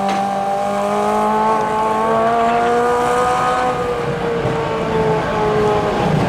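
Modified pulling lawn tractor's engine running hard, its pitch climbing slightly and then dropping away about four seconds in.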